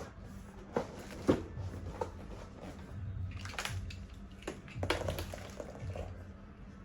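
Clicks, knocks and light clatter of hard high chair parts being handled and fitted together, with a sharp knock about a second in and another cluster near five seconds.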